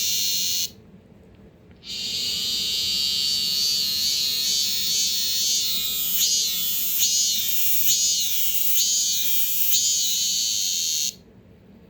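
Male Korean robust cicada (참매미, Hyalessa fuscata) singing: a loud, high buzz that breaks off briefly near the start, then resumes and passes into the 'maem-maem' phrase of rising-and-falling pulses about twice a second, before stopping abruptly near the end.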